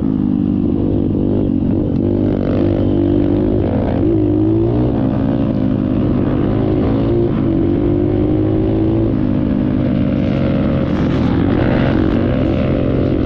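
Dirt bike engine running while being ridden, its engine speed rising and falling with the throttle and then holding steady for a few seconds.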